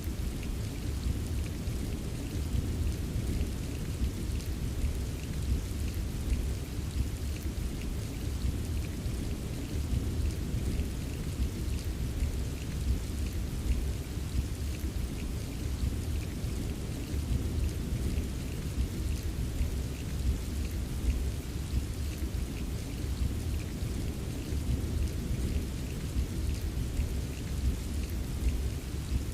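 Steady rain, a dense hiss of drops with scattered individual drops ticking, over a constant low rumble.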